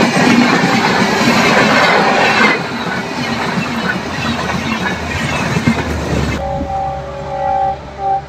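Passenger train passing close at speed, its wheels and coaches clattering and rushing over the track. Near the end, with the train receding, a multi-tone train horn sounds twice.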